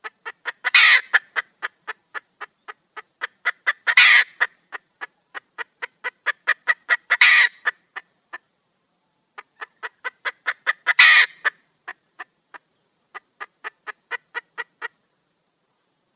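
Junglefowl hen calling for a mate: a steady run of short clucking notes, about three a second, broken four times by a louder, longer cackling note. The calling pauses briefly and stops near the end.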